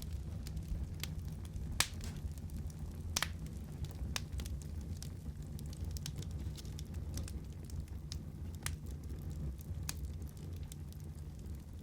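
Wood fire crackling in a fireplace: a steady low hiss and rush of burning under sharp, irregular pops, roughly one a second.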